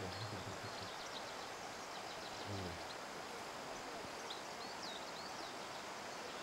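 Small birds chirping in short high notes through a steady outdoor background. A short low call with a clear pitch sounds in the first second and again briefly about two and a half seconds in.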